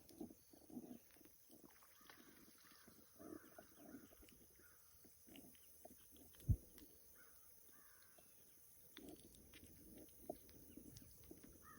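Faint, repeated bird calls in the distance, with one sharp knock about six and a half seconds in.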